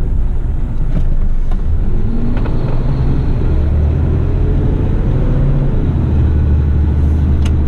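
Heavy rigid truck's diesel engine running steadily on the road, its note rising and falling a little midway, with a few faint clicks.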